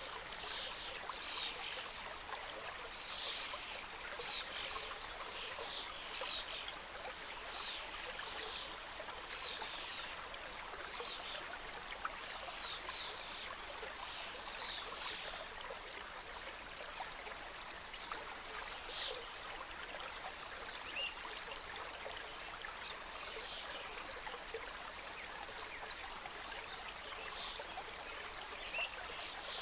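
Mountain stream flowing and trickling over rocks, a steady rush of water. Short high-pitched sounds come thickly over it in the first half and more sparsely later.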